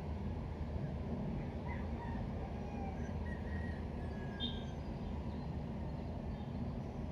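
Steady low rumble of ambient background noise, with a few faint, short bird chirps in the first half.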